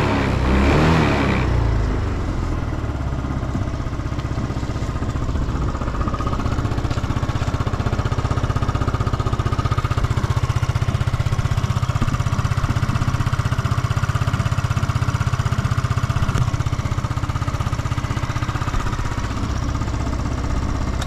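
Yamaha Cygnus X 125 scooter's single-cylinder four-stroke engine dropping from a blip of revs to idle in the first second or two, then idling steadily. The seller presents it as running with no abnormal noise.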